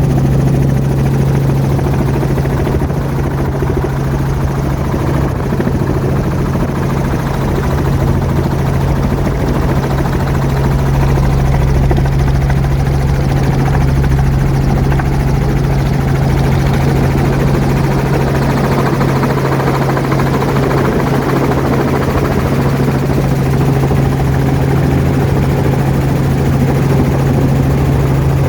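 Robinson R44 helicopter's rotor and piston engine running steadily, heard from inside the doorless cabin: a loud, even drone with a strong low hum and rushing noise.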